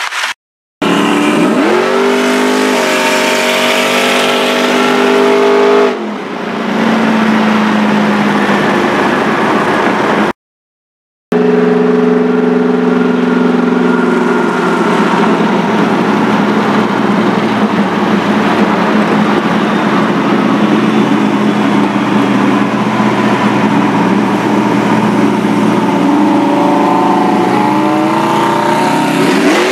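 Car engine under hard acceleration during a roll race, heard from inside the cabin. Its pitch climbs, then drops about six seconds in, and after that it pulls at high revs with a slowly rising pitch over a haze of road and wind noise. The sound cuts out completely twice for a moment.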